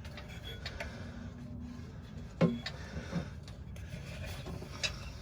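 Handling noise: a few light knocks and clicks, the sharpest about halfway through and another near the end, over a steady low background hum.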